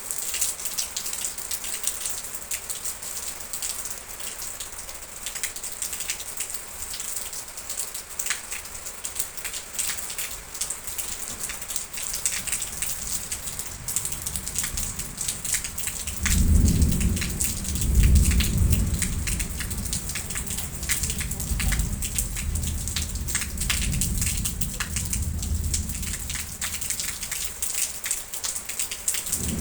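Steady heavy rain with dense drop patter. About halfway through, a deep roll of thunder rises suddenly, is loudest for a couple of seconds, then rumbles on more softly nearly to the end.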